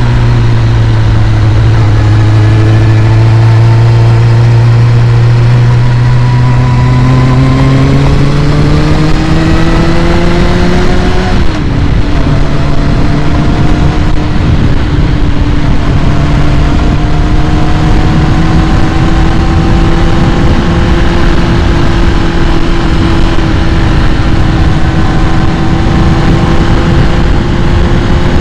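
2001 Kawasaki ZX-6R's carbureted inline-four idling while warming up from a cold start. The idle climbs slowly, drops abruptly about eleven seconds in, then holds steady and creeps up again.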